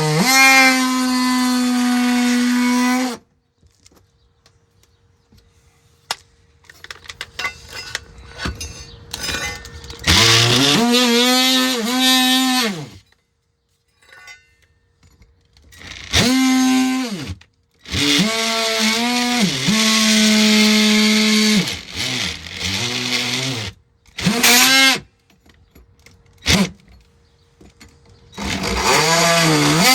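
Power tool cutting the plastic underbody cover of a car, run in short bursts of one to three seconds. Its motor whines up at each start, holds a steady pitch that sags a little under load, and winds down when released, with quiet scraping and clicks in between.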